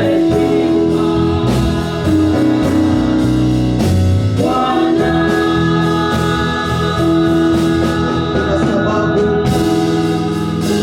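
Gospel praise-and-worship music: singing with instrumental accompaniment and sustained chords.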